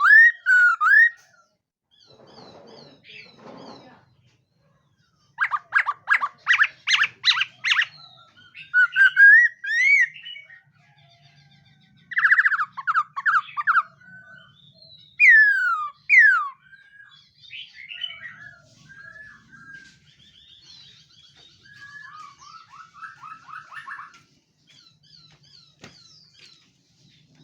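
Khướu mun laughingthrush singing: loud, clear whistled phrases with rapid runs of repeated notes and falling slurs, broken by short pauses, with softer chattering phrases in the second half.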